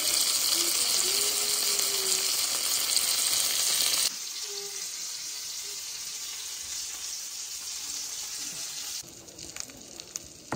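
Breaded chicken cutlet frying in avocado oil in a cast-iron skillet: a loud, even sizzle that cuts off abruptly about four seconds in, leaving a quieter steady hiss. It drops again near the end, where a few faint clicks sound.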